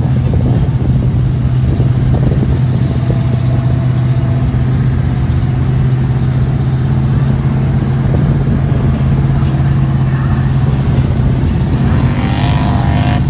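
Truck engine running loud and steady with a constant low drone.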